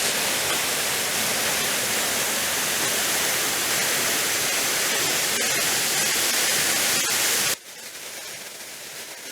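Waterfall rushing, a loud steady roar of falling water close by. About three-quarters of the way through it cuts abruptly to a much quieter, thinner rush.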